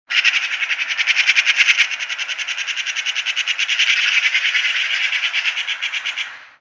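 Rapid, steady chirping trill, about a dozen chirps a second, fading out near the end.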